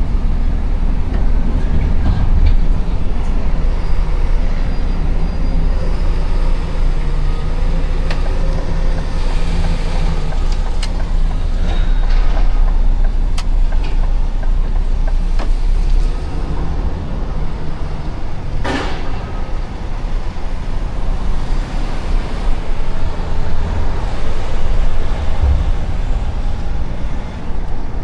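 Truck's diesel engine running with a steady low rumble and road noise, with scattered clicks and rattles and one short hiss of air about two-thirds of the way through.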